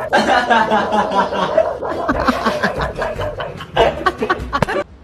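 A cartoon character's voice laughing and snickering, cutting off suddenly near the end.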